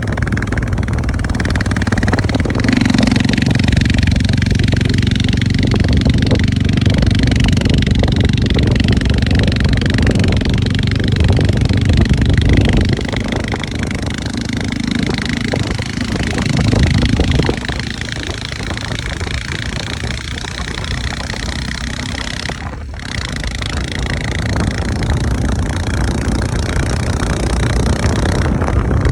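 Motorcycle engine running under way, a steady note that is louder for the first dozen seconds or so and then eases off.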